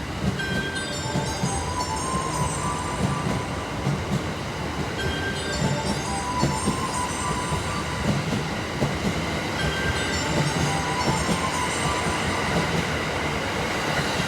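The EF81-hauled E26 series Cassiopeia sleeper train running through the station: a steady low rumble with wheels clacking over rail joints, and high-pitched wheel squeal that comes and goes in stretches.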